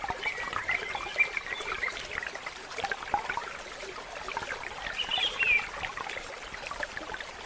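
Water trickling, with many small clicks and a few faint short chirps throughout.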